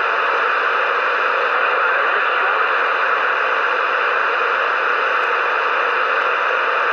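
CB radio receiver hissing with steady static, no voice coming through.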